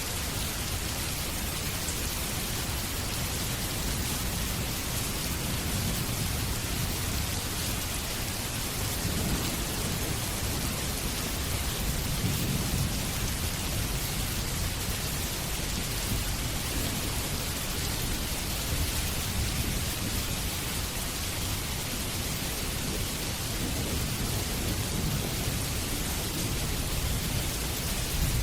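Steady rainfall, with low rolls of distant thunder swelling about nine seconds in, again around twelve seconds, and near the end.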